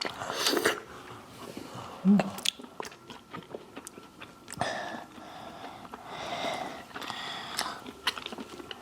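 Close-miked eating of crispy fried chicken: crunchy bites and chewing, with many small crackles and clicks.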